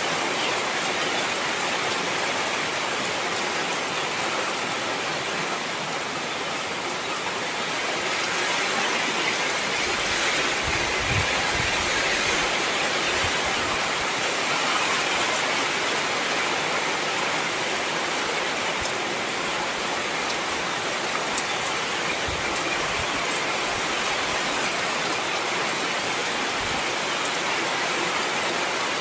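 Heavy rain falling steadily, an even hiss of downpour with a few faint low thumps between about ten and twenty-seven seconds in.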